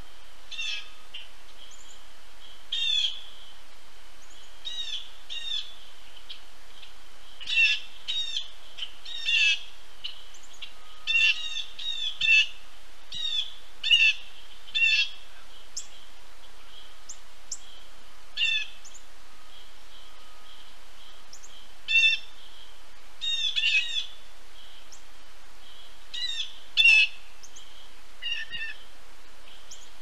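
Wild birds calling: short, high, slurred call notes in irregular clusters of two to four, some louder than others, over a faint steady high hum.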